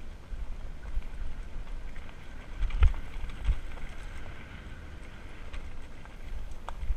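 Electric mountain bike ridden fast over a dirt trail: steady wind buffeting the microphone and tyre rumble, with two sharp knocks from the bike jolting over bumps about three seconds in.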